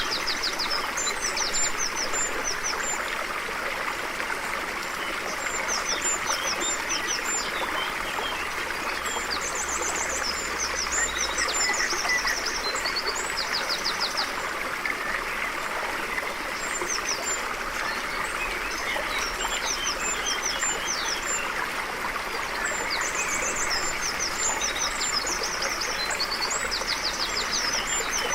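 A stream flowing steadily, with several birds singing over it in short calls and rapid trills that come and go in bursts.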